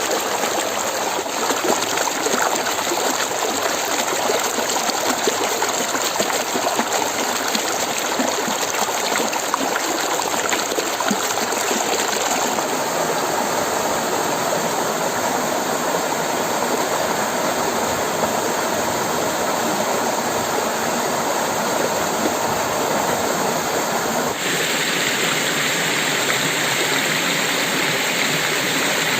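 Stream of water flowing steadily, a dense rushing splash. The sound shifts abruptly twice, about twelve seconds in and again about twenty-four seconds in.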